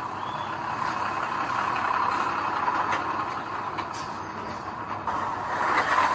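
Heavy construction machinery running: a steady engine noise with a few sharp clicks, growing louder and rougher near the end.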